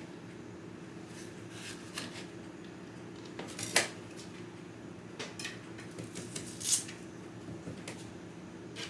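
Kitchen clatter: scattered light knocks and clinks of dishes and utensils being handled, the two loudest about four and seven seconds in, over a steady low hum.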